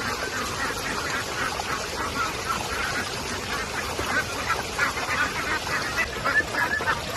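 Many short, overlapping calls from a flock of birds, likely fowl, over a steady hiss of rain.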